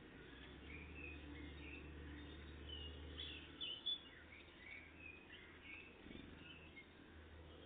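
Faint chirping of small songbirds: many short high calls scattered through, two louder ones a little past the middle, over a steady low hum.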